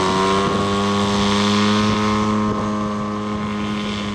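Radio-controlled scale model airplane's engine and propeller running steadily at taxi power, holding one pitch that sags slightly as the level eases toward the end.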